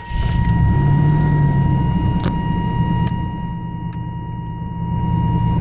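A long, steady censor bleep, a single pure beep tone held for several seconds, covering the cursing and cutting off suddenly. A loud low rumble runs underneath.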